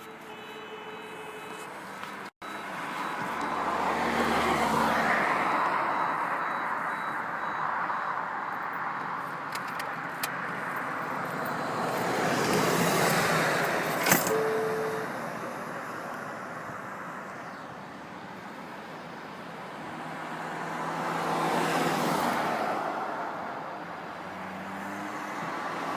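Road traffic: vehicles passing one after another, a broad rushing noise that swells and fades about three times, with a single sharp tick about midway.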